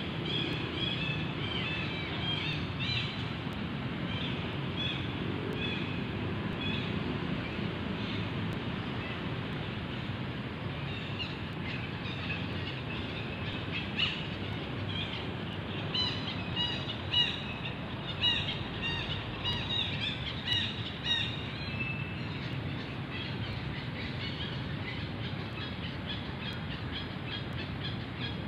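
Birds chirping in quick clusters of short, high calls, near the start and again through the middle, over a steady low outdoor rumble.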